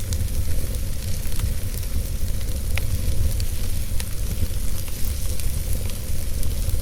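Wood fire burning in a fireplace: a steady low rumble of the flames with scattered sharp crackles of the burning wood, the loudest crack a little under three seconds in.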